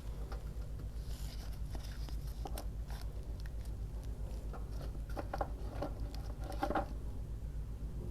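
Paper being handled on a worktable: rustling, small scrapes and light taps, busiest a little after the middle, over a steady low hum.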